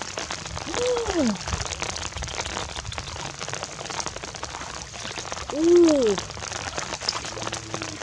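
Steady rain pattering on shallow floodwater and wet grass. A woman's voice gives two short exclamations that rise and fall in pitch, about a second in and a louder one near six seconds.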